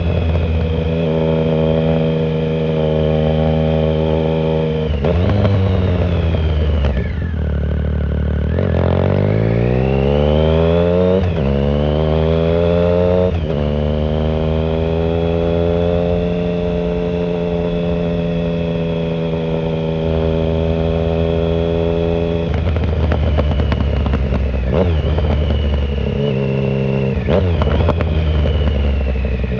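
2009 Triumph Speed Triple 1050's inline three-cylinder engine through a shorty Competition Werkes exhaust with no silencer, on the move. The note drops away about five seconds in, then climbs hard through two quick upshifts, holds steady at a cruise, and rises and falls again with throttle changes near the end.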